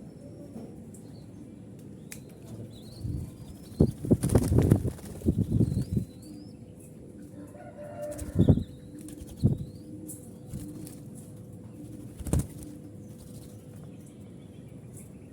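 Zebra doves' wings flapping in several sudden flurries, the longest and loudest about four to six seconds in and shorter ones later, with faint chirps of small birds in the background.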